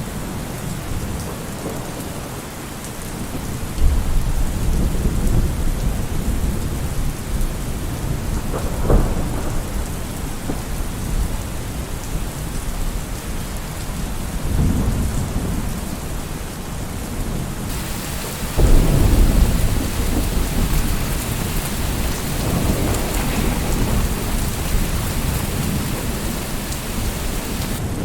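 Steady heavy rain with repeated rolls of thunder that swell and fade. There is a sharp crack of thunder about a third of the way in and a loud clap about two-thirds through, and the rain grows louder from about two-thirds through.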